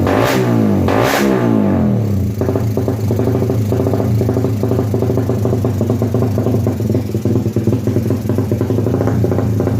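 Suzuki Satria FU 155 single-cylinder engine through a Fantera aftermarket exhaust, blipped sharply twice near the start, then settling to a steady run.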